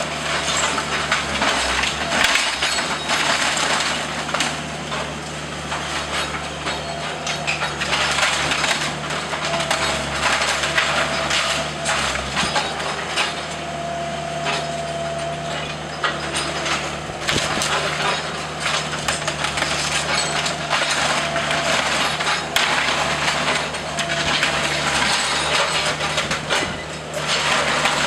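Wooden house framing being crushed and broken up in demolition: continuous cracking, snapping and splintering of timber over the steady drone of a machine engine.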